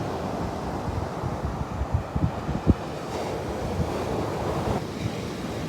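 Ocean surf washing onto a beach, with wind buffeting the microphone in a burst of low thumps about halfway through.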